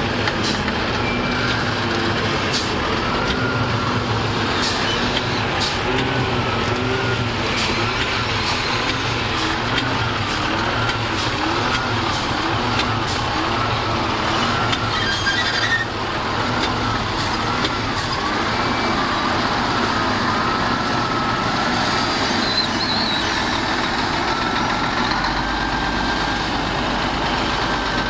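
Heavy diesel earthmoving machinery running steadily, with a whine that wavers up and down in pitch and scattered sharp clanks.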